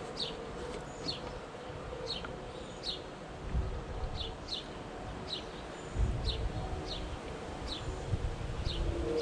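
Outdoor background: a bird giving short, falling chirps about once a second, some in quick pairs, over a faint steady insect buzz, with a couple of low gusts of wind on the microphone.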